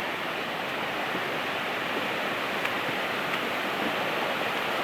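Floodwater rushing and pouring in a steady torrent across the ground, a loud even rush of water.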